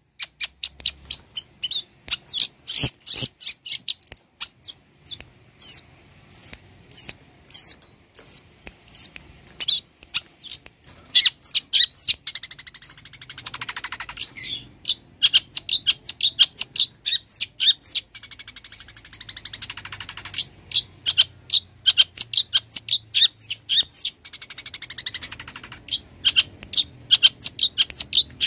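Long-tailed shrike (cendet) singing vigorously: a fast run of sharp high chirps and whistled notes, broken three times by harsh, buzzy rasping stretches.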